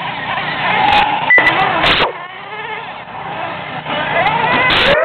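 Electric R/C monster trucks racing, their motors whining and rising in pitch as they accelerate, several overlapping. The loudest stretches come about one to two seconds in and again near the end.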